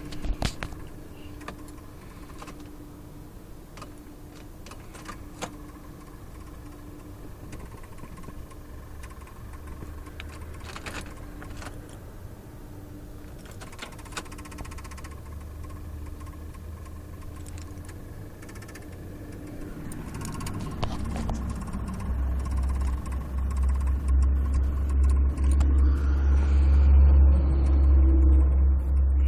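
A 2005 Ford Crown Victoria that won't crank: scattered single clicks on trying to start it, over a faint steady hum. A low rumble builds in the last third and is the loudest sound near the end.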